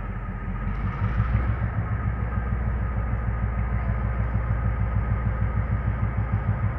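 EMD G22 diesel-electric locomotive's engine running with a steady throbbing beat. It grows louder about a second in, as if throttled up.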